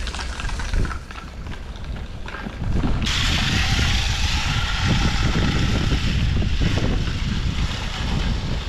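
Strong wind buffeting the microphone, getting louder about two and a half seconds in, with a steady hiss that starts sharply about three seconds in.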